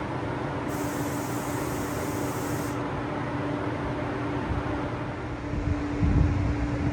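Steady hum and hiss of an electric commuter train standing at the platform, a low steady tone running under the noise, with a brief hiss early on and a low thump about six seconds in.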